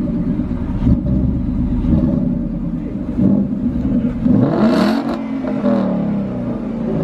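Truck engine running, with one rev about four and a half seconds in: the pitch climbs and falls back within about a second and a half.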